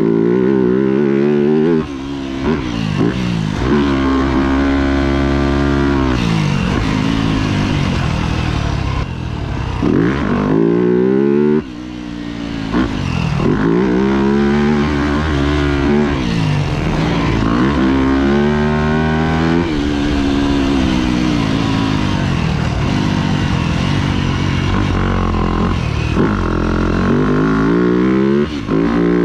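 Yamaha YZ250F dirt bike's 250cc single-cylinder four-stroke engine ridden hard around a motocross track: the engine note climbs in pitch under throttle and falls away sharply when the throttle is shut, over and over.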